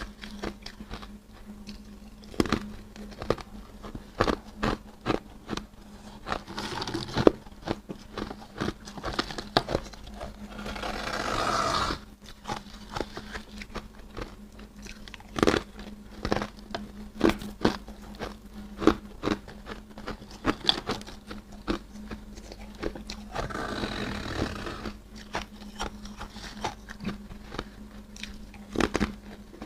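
Close-up crunching of freezer frost being bitten and chewed: many sharp crunches, with longer rasping stretches, the longest about ten seconds in, building and cutting off sharply.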